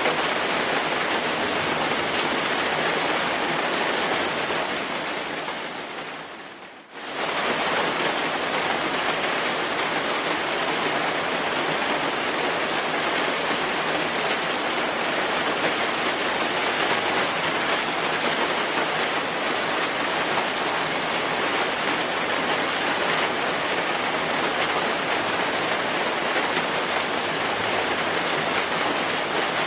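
Steady rain falling, an even hiss of drops. About four seconds in it fades down over a couple of seconds, nearly drops out, then comes back abruptly at full level about seven seconds in.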